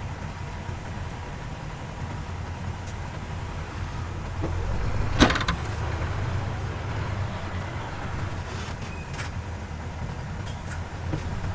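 Heavy diesel engine of earthmoving machinery running steadily with a low rumble, which swells a little about four to five seconds in. One sharp metallic clank comes about five seconds in.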